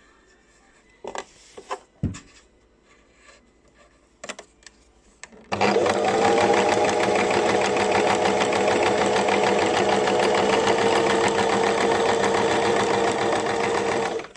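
A few short clicks and knocks, then an electric sewing machine runs steadily at constant speed for about nine seconds, stitching, and stops abruptly.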